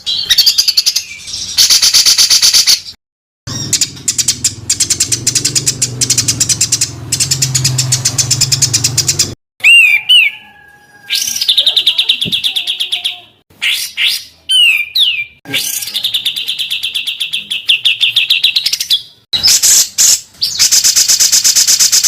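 Songbird song of the kind used as masteran training recordings: loud, fast, harsh trills of rapidly repeated notes in bursts separated by short gaps, with a few sharp curved whistles in the middle. A low hum runs under the first half.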